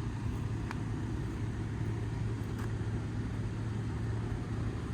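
A steady low hum over a low rumble of background noise, with a few faint ticks.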